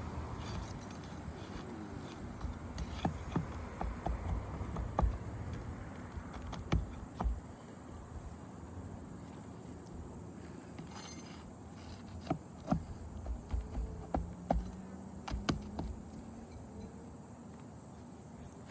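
Scattered sharp taps, knocks and scrapes of hand tools working at asphalt roof shingles, in two clusters, over a faint steady background.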